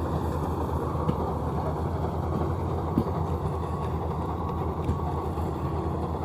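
Maxxi NDR85 Turbo Matic combine harvester's engine running steadily with a low drone.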